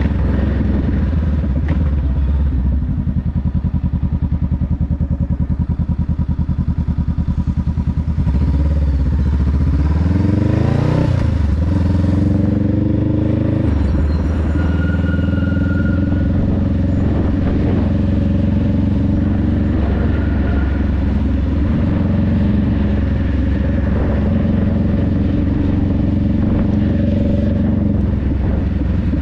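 Honda Rebel 500's parallel-twin engine running steadily under way, its revs climbing for a few seconds near the middle, then settling into a steady cruise.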